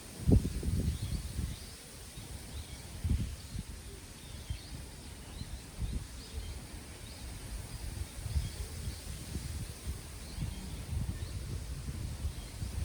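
Wind gusting against the microphone as a low, uneven rumble, strongest just after the start, with small birds chirping faintly and repeatedly above it.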